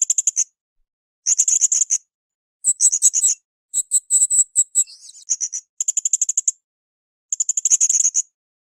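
Blue-crowned hanging parrot (srindit) giving shrill, very high-pitched chirps in fast rattling bursts, each under a second long and repeating about every second.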